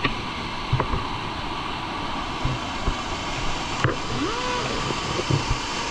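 Waterfall pouring into a rock pool: a steady rush of falling water, with a few light knocks.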